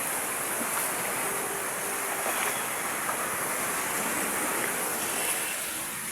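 Steady rushing hiss of flowing floodwater.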